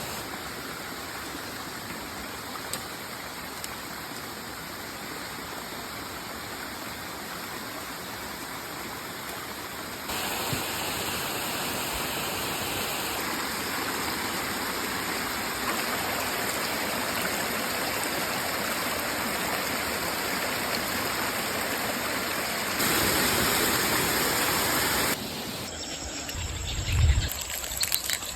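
Steady rushing water, as of a forest stream or waterfall, with sudden jumps in level a few times. A loud low thump near the end.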